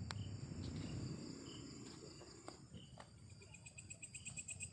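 Night insects such as crickets or katydids calling with steady high-pitched whines, joined about three seconds in by a fast pulsing trill. A low rumble sits underneath, strongest in the first second or so, with a few faint clicks.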